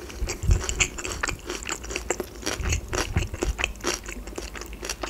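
A person chewing a mouthful of food close to the microphone, with irregular mouth clicks and smacks and soft low thumps of the jaw.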